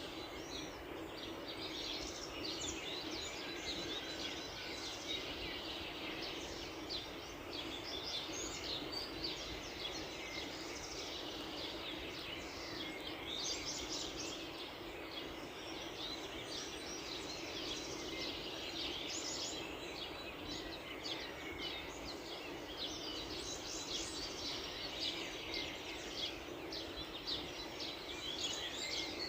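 A chorus of many small birds chirping and trilling at once, dense and continuous, over a steady low background hum.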